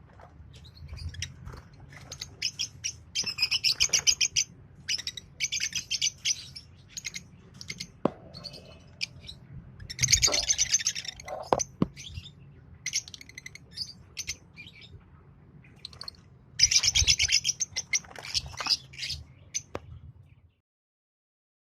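Pair of green Fischer's lovebirds chirping: loud bursts of rapid, high-pitched chirps, with scattered single chirps between them. The sound cuts off shortly before the end.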